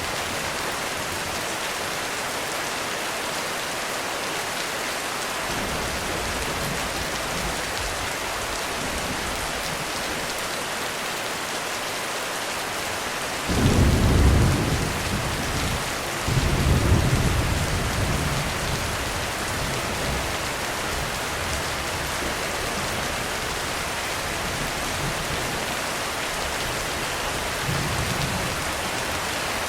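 Heavy rain on a roof, falling steadily. About halfway through a sudden crack of thunder breaks in, and a second rolling rumble follows a couple of seconds later. Fainter distant rumbles come earlier and again near the end.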